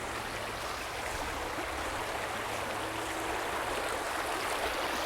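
Stream water rushing steadily over rocks, growing slightly louder.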